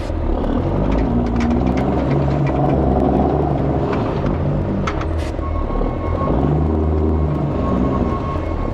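Heavy truck's diesel engine running, its pitch rising and falling with engine speed.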